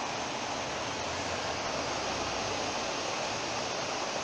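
Fast-flowing floodwater rushing steadily, an even noise with no breaks.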